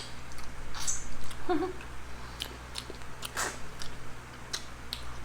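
Close-miked eating sounds: chewing and biting food, with scattered crisp clicks and smacks. The loudest come about a second in and again about three and a half seconds in.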